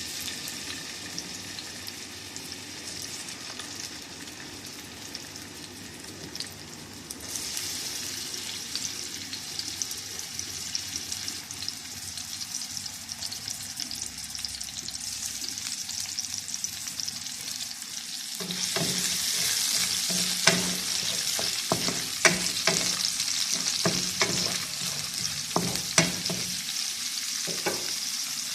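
Onion sizzling as it fries in hot oil in a pan. The sizzle grows louder about seven seconds in and again past the halfway point, when a spatula starts stirring with sharp knocks and scrapes against the pan.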